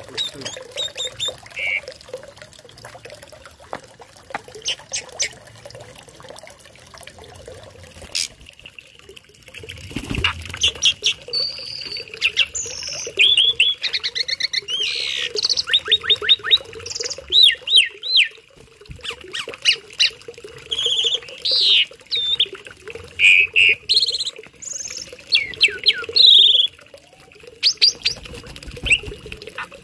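A tame pet starling (jalak) singing a varied run of sharp whistles, chirps and rapid trills. It is sparse at first and much busier from about a third of the way in.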